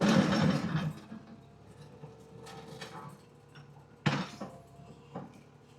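A porcelain toilet crashing into a garbage truck's rear hopper: a loud clattering crash lasting about a second, then a single sharp knock about four seconds in.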